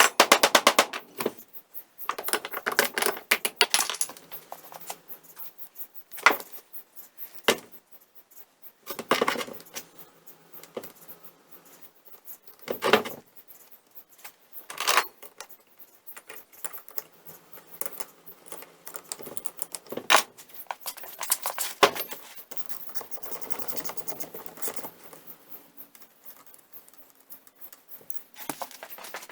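Metal parts and hand tools clinking and clattering at irregular intervals as a Cushman four-jaw lathe chuck is taken apart, with sharp knocks every second or two and quieter handling between.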